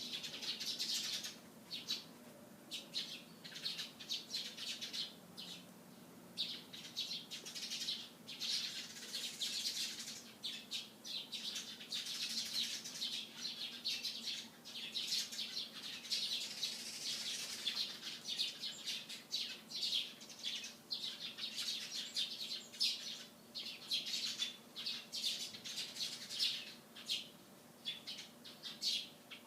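Eurasian tree sparrows chirping, many short chirps from several birds overlapping with hardly a pause.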